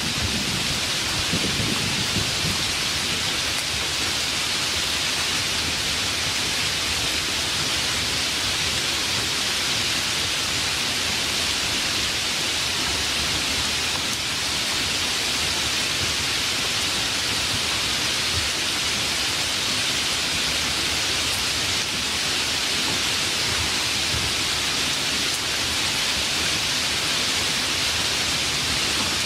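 Steady rain, an even dense hiss without a break. A low rumble of thunder fades out in the first couple of seconds.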